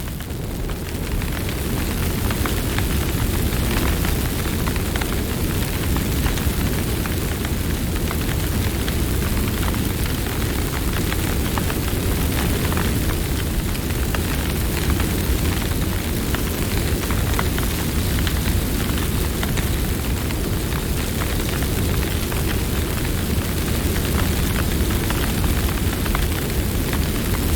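Campfire burning: a steady low rumble of flame with many small crackles and pops throughout.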